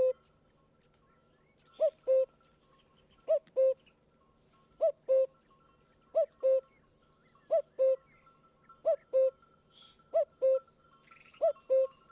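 A bird repeating a low two-note hooting call, the first note slightly higher than the second, about every second and a half.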